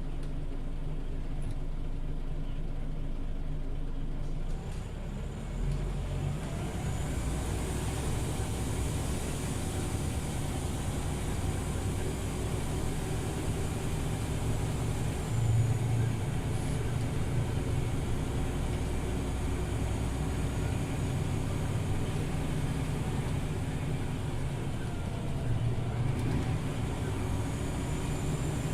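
Scania OmniLink city bus heard from inside while under way: engine running with a steady hum. The sound dips briefly about five seconds in, then the engine note rises as the bus accelerates again.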